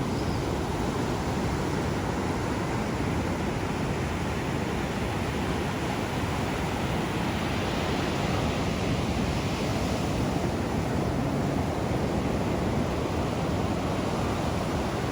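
Ocean surf washing on the shore in the dark, a steady rushing noise that swells a little about halfway through.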